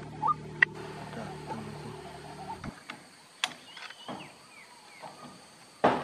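Birds calling in a rice field, with a steady drone for the first couple of seconds that then cuts off, followed by a few short gliding chirps and clicks. A loud sharp knock comes near the end.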